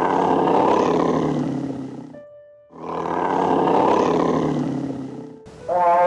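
A big cat growling in two long, rasping breaths of two to three seconds each. Near the end a different, pitched animal call starts and falls in pitch.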